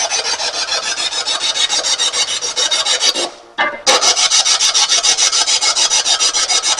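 Spirit box sweeping through radio stations: loud static chopped into a rapid, even stutter several times a second. It drops out briefly a little past three seconds in, then resumes.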